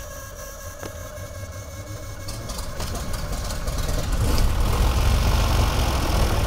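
Cessna 310's left engine, a Continental flat-six, being cold-started after a five-second prime. The starter whines as it cranks, the engine fires irregularly, then catches about four seconds in and runs steadily and louder.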